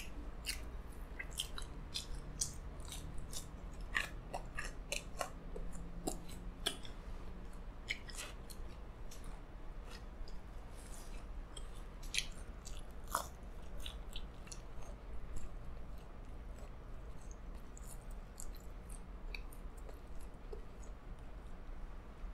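A person chewing crisp, crunchy food close to the microphone. Sharp crunches crackle over the chewing, frequent at first and thinning out toward the end.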